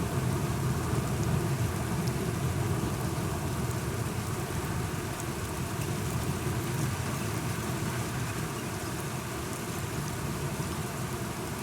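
Steady rain falling, with a low continuous rumble of thunder underneath that eases slightly in the second half.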